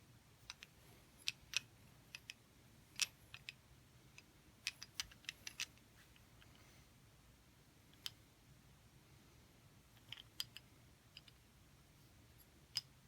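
Irregular light clicks and taps over a quiet room hum. Some come singly and some in quick clusters, with the loudest about three seconds in, and a lull in the middle.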